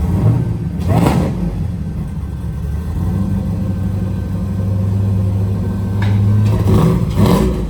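Twin-turbo LS-swapped V8 engine running steadily at idle, with short louder bursts about a second in and again near the end.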